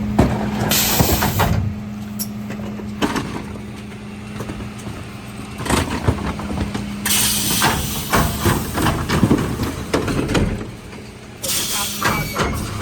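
Mercedes Econic refuse truck working a bin collection: the engine runs with a steady hum under repeated clanks and knocks from bins and the Zoeller lifter. Loud bursts of air hiss come three times: near the start, about seven seconds in, and again near the end.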